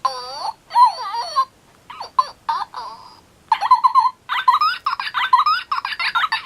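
Baby Birdy Bird, a Furby-knockoff electronic toy pet, making its electronic voice sounds through its small speaker: warbling, pitch-bending chirps and babble in quick runs with short gaps.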